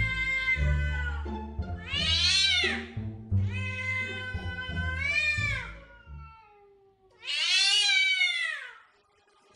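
A domestic cat meowing loudly, a string of about five long, drawn-out meows that rise and fall in pitch, over background music that stops about six seconds in.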